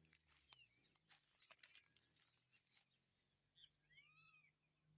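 Near silence: a faint, steady, high insect drone, with a few faint bird chirps a little past halfway through.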